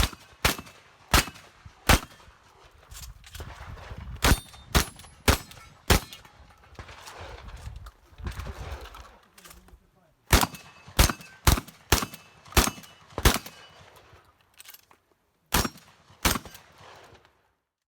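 Remington 870 pump-action shotgun firing a fast string of about fifteen shots in several bursts, each shot roughly half a second apart, with a pause of a few seconds partway through. The sound cuts off abruptly near the end.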